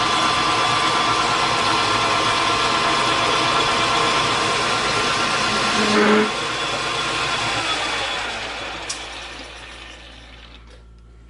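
Metal lathe running steadily with a whine of several steady tones while turning a metal part, with a brief louder sound about six seconds in. The lathe is then switched off and winds down, its pitch falling and the noise fading.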